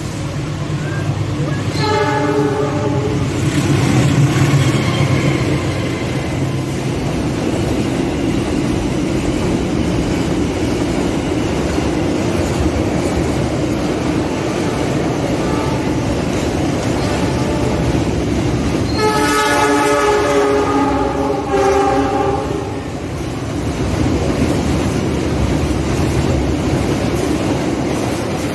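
A CC206 diesel-electric locomotive hauling a container freight train passes close by: a short multi-tone horn blast about two seconds in, then the heavy rumble of the locomotive and the clatter of the tank-container flat wagons rolling past. About nineteen seconds in, a train horn sounds again for about three seconds over the rolling wagons.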